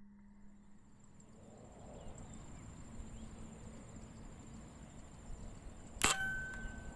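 A single air rifle shot about six seconds in: one sharp crack with a brief ringing tone after it. Beneath it, a steady high insect trill.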